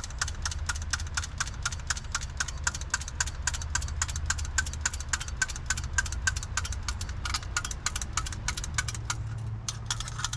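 1967 Ford F100's FE big-block V8 running at idle on fuel poured into the carburettor, with a steady rapid ticking of about six a second; the ticking thins out near the end. The owner suspects sticking valves.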